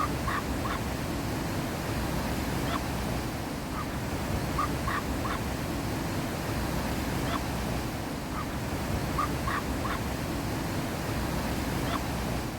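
A bird giving short calls, singly and in twos and threes every second or two, over a steady rushing noise.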